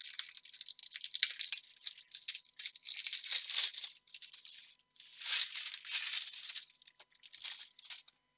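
Plastic packaging crinkling and rustling as it is handled and unwrapped by hand. It comes in two spells, with a short pause about four seconds in.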